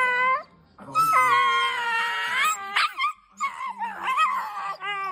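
A dog howling and whining in high, drawn-out calls: a short call, then a long one lasting about a second and a half, then several shorter wavering ones.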